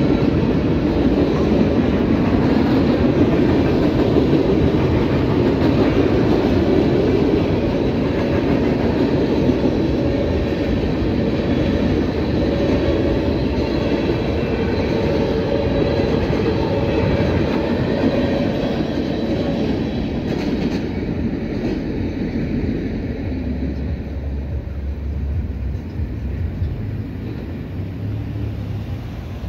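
Freight cars of a CSX manifest train rolling past over a level crossing, a steady rumble and clatter of steel wheels on rail. It eases off over the last several seconds as the end of the train clears the crossing.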